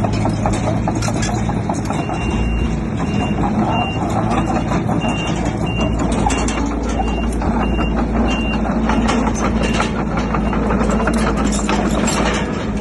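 Heavy diesel earthmoving machinery running with a clattering of rock and steel, while a reversing alarm sounds a string of evenly spaced beeps from about two seconds in until past the middle.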